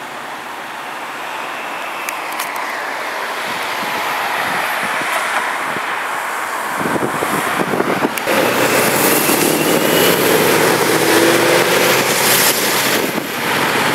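Tuned supercharged V8 of a Shelby GT500 convertible, fairly steady at first, then much louder from about seven seconds in as the car accelerates past, its engine note rising.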